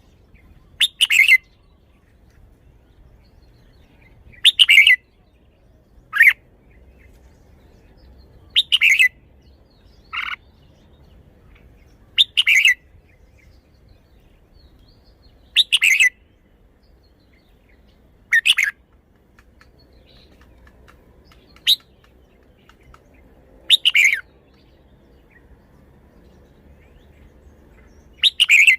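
Red-whiskered bulbul singing short, bright song phrases, about ten of them, each under a second and a few seconds apart.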